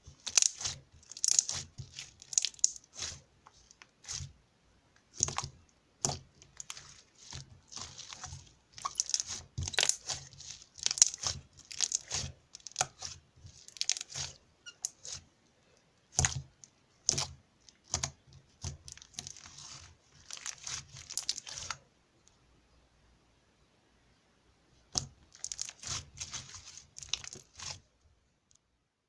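Slime being squeezed and stretched by hand, giving irregular sticky clicks, pops and crackles. The sounds stop for about three seconds, then resume briefly.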